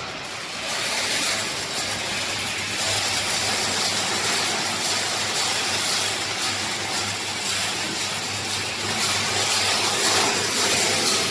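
Pet food extrusion line machinery running: a steady electric-motor hum under a broad, even hiss. The hum comes in about a second in.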